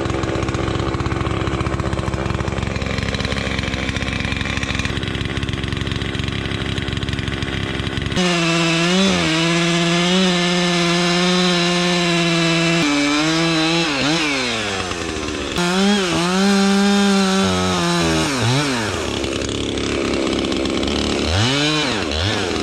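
Two-stroke chainsaw cutting into a large tamarack trunk. For about eight seconds it runs at full throttle in the cut. Then a high engine note holds steady and several times drops and climbs again as the saw is throttled down and back up.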